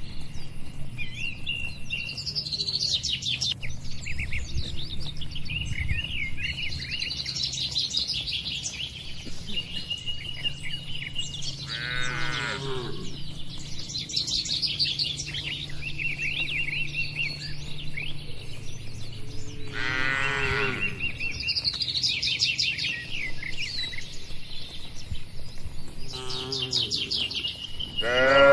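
Many small birds chirping and twittering without a break, while cattle moo twice, about twelve and twenty seconds in. Each moo is short and falls in pitch, and another begins right at the end.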